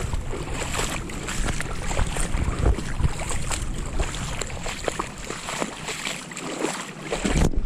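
Flood-swollen creek rushing steadily, with wind rumbling on the microphone and scattered small clicks and knocks. The low wind rumble eases about two-thirds of the way through, and the sound drops out briefly near the end.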